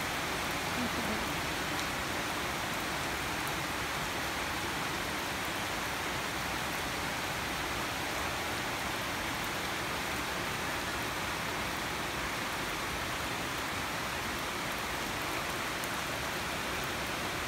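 Heavy tropical rain falling steadily, a dense, even hiss of rain pouring down.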